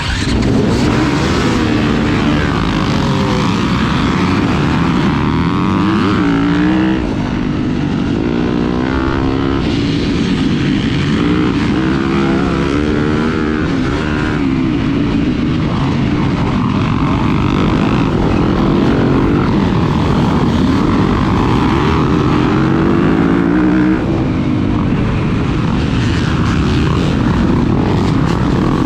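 Motocross dirt bike engine being ridden hard, its pitch repeatedly rising and falling as it revs up and backs off, under a constant rushing noise.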